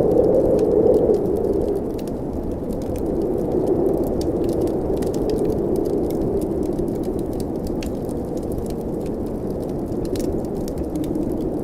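Blizzard wind blowing as a steady low rush that swells and eases slightly, with frequent small crackles and pops from a wood fire.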